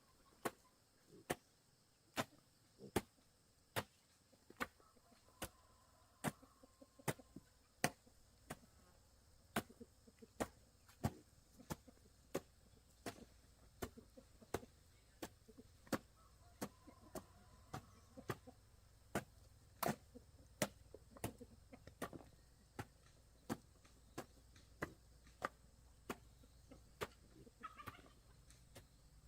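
A steady series of sharp knocks, a little more than one a second.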